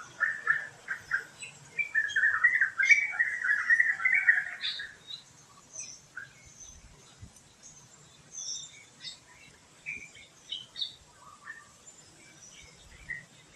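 Wild birds chirping: a loud run of rapid chirps that stops about five seconds in, followed by scattered fainter chirps and calls.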